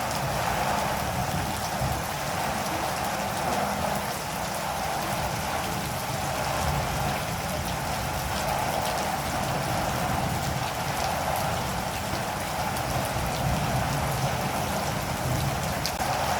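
Steady rain falling, with scattered individual drops.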